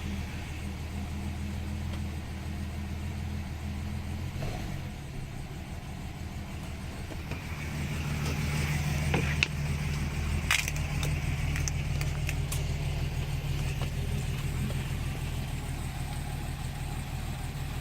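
A 1975 Mercedes-Benz 280S's M110 2.8-litre inline-six with a Pierburg carburettor, running steadily just after a cold start. From about 8 seconds in it runs a little faster and louder, and a few light clicks sound between about 9 and 12 seconds in.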